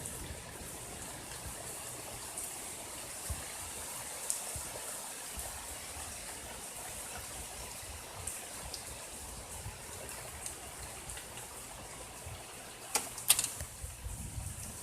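Heavy rain falling steadily, with scattered drop ticks and a quick cluster of sharper taps near the end.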